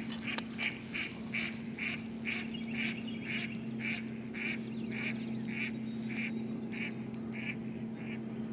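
A bird calling over and over in an even series of short calls, about two a second, growing fainter toward the end, over a steady low hum.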